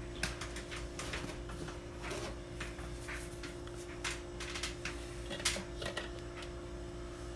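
Sweet potatoes being handled and set on a scale: scattered light knocks, clicks and rustles over a steady low hum.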